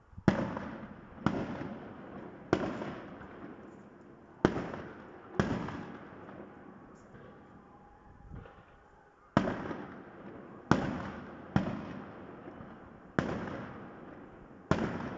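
Aerial firework shells bursting overhead: about ten sharp bangs, each trailing off in a rolling echo, with a lull of about three seconds in the middle.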